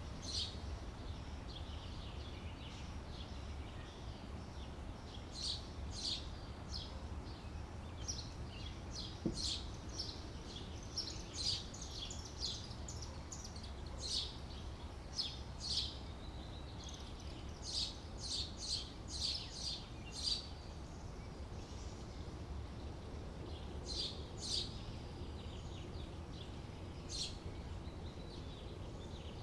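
Small birds chirping: short, high notes coming in quick clusters with pauses between, over a low steady background rumble.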